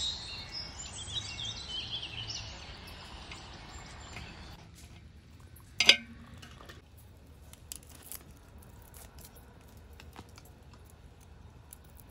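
Birds chirping for the first few seconds, then one sharp knock about six seconds in, followed by faint scattered clicks.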